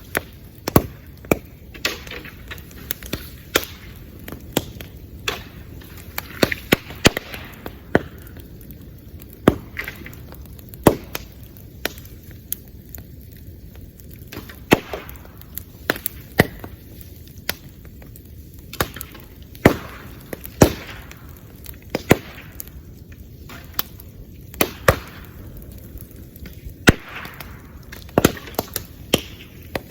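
Bamboo bonfire burning, with sharp, loud pops and cracks at irregular intervals over a low crackle. The bangs come from sealed bamboo segments bursting in the heat.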